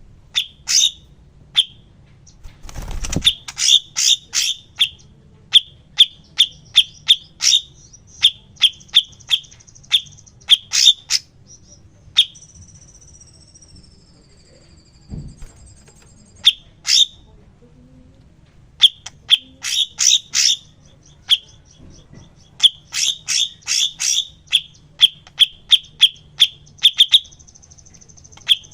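Cucak cungkok song: runs of short, sharp, high chirps, several a second, broken by brief pauses. Near the middle there is a faint, thin, wavering trill.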